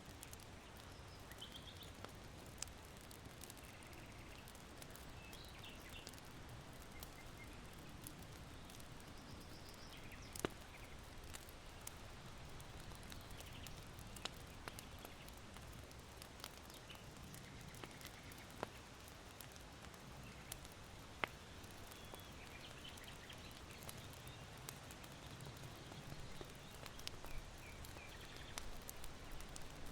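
Faint ambience of charcoal burning in an irori hearth: a few sharp, scattered crackles and pops, with small birds chirping faintly and a low steady rumble of wind.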